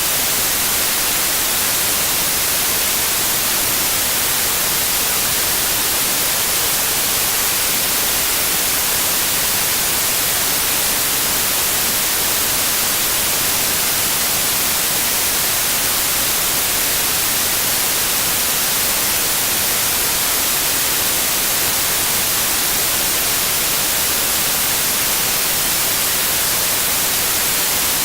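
Steady generated white noise: an even, unchanging hiss, strongest in the high end.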